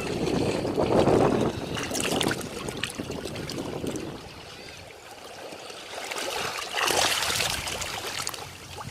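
Ocean waves washing onto a beach: a rushing wash that swells and ebbs, loudest near the start and again about seven seconds in, when a wave breaks with a hissing rush.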